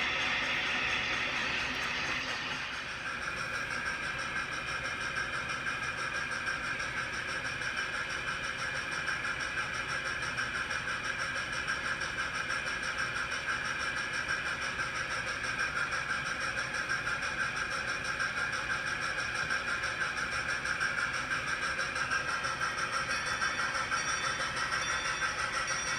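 Steam-hauled train on the Strasburg Railroad running by: a steady rush of locomotive and rail noise that takes on a quick, even pulsing through the second half.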